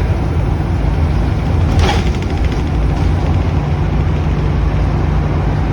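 Steady low rumble of a vehicle's engine and road noise, as when driving.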